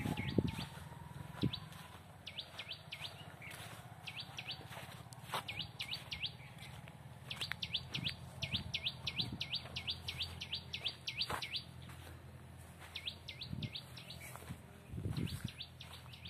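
A bird calling in runs of quick, repeated swooping notes, about four a second, in several bouts, the longest lasting some four seconds. A few faint thumps sound underneath.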